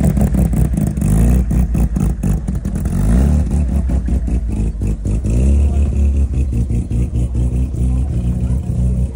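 Rotary-engined car running, its exhaust note a rapid, choppy beat.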